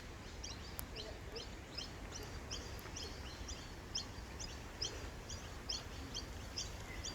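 A bird's short, high chirps repeated steadily about twice a second, over a low background rumble.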